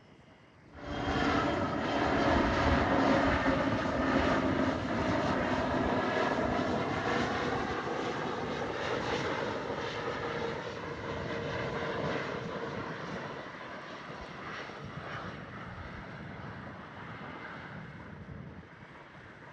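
Jet airliner's engines as it passes the spotting position: the sound starts abruptly about a second in, is loudest soon after, then slowly fades away.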